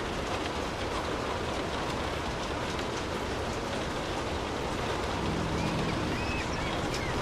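Steady rain falling, an even hiss. About five seconds in, a low hum and a few short high squeaks join it.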